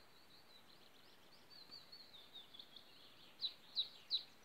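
A small songbird chirping: a run of short, high, quick notes that slide downward, faint at first and louder over the last second or so.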